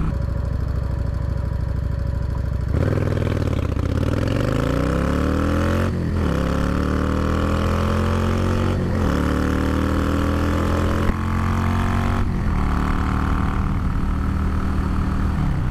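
Cruiser motorcycle engine, steady at first, then pulling away: the revs climb and drop back at about three gear changes.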